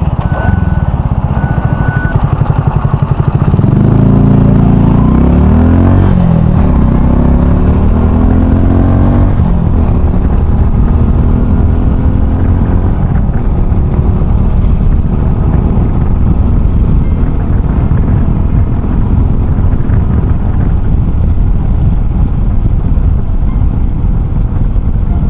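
Honda Cross Cub 110's single-cylinder engine through an aftermarket RPM Raptor exhaust, rising in pitch twice in the first ten seconds as the bike pulls through the gears, then running steadily at cruising speed.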